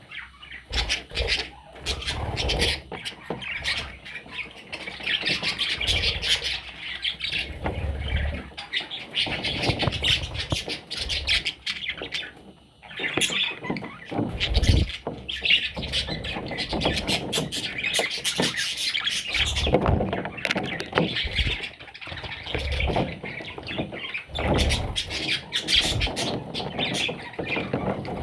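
Parrot chicks chirping and squawking almost without pause, a dense chatter of calls that breaks off briefly about twelve seconds in. Occasional low thumps sound under the calls.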